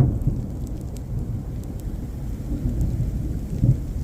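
Deep rolling rumble of thunder from a lightning strike that felt right in front of her. It is loudest at the start and eases off, with a brief swell near the end.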